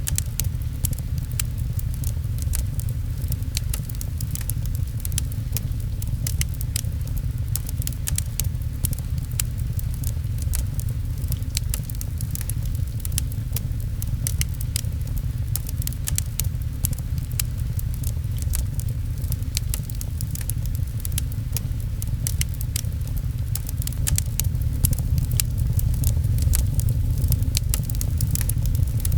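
Fireplace crackling, with many sharp pops and ticks, over a steady low rumble and the patter of rain.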